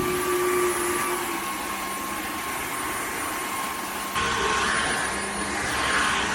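Cordless wet-dry vacuum mop running over a muddy floor: a steady motor whine with a thin high whistle, stepping suddenly louder about four seconds in.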